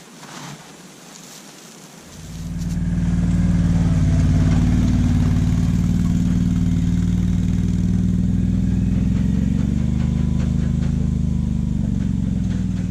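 An engine comes in about two seconds in and runs steadily at a constant speed.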